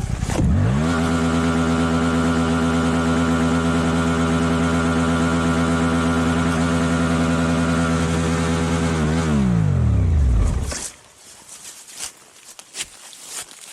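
Motorcycle engine revving up and held at steady high revs for about eight seconds, the throttle stuck open after the bike went down. It then winds down and stops about eleven seconds in, leaving faint clicks and rustling.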